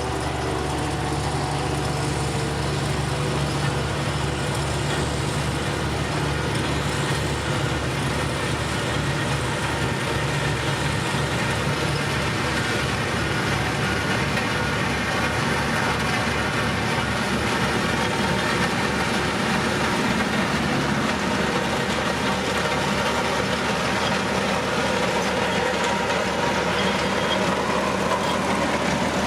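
Diesel engine of heavy road-building machinery running steadily, getting a little louder near the end.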